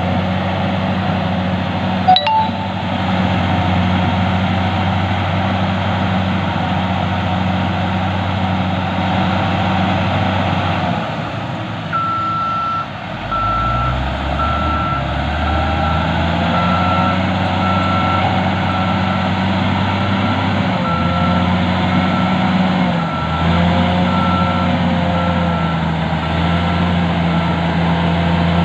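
Heavy earthmoving machine's diesel engine running steadily, with a single clank about two seconds in; the engine dips and picks up again around the middle, and from then on a reversing alarm beeps steadily, about once a second, as the machine backs up.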